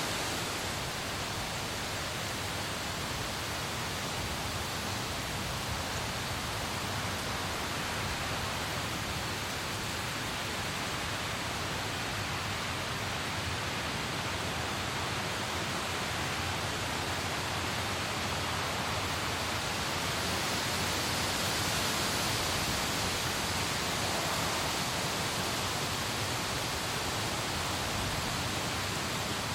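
Steady rain falling as an even hiss, swelling slightly about two-thirds of the way through.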